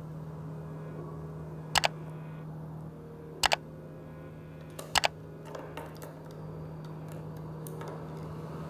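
Sharp plastic clicks from laptop parts being handled during a hinge repair, coming as quick double clicks three times over a steady low hum.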